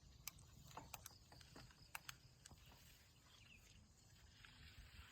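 Near silence with a low hum and a few faint, irregular clicks in the first couple of seconds.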